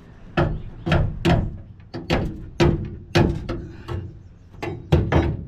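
About nine hard metal-on-metal knocks at uneven spacing, each ringing briefly, as an LS V8 engine is worked into line with its mounts.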